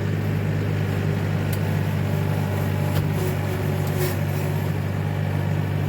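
Trailer truck engine running with a steady low hum, a few faint clicks over it.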